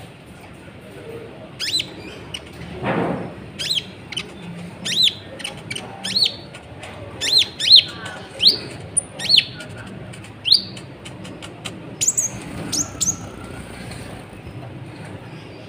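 Kolibri ninja sunbird singing a string of short, sharp, high chirps at an uneven pace, some in quick pairs, with a brief soft rustle about three seconds in.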